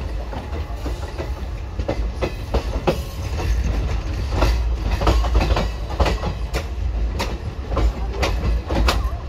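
Indian Railways express passenger coach running on the track, heard close from its open doorway: a steady low rumble with irregular clicks and clacks of the wheels over rail joints, coming thicker about halfway through.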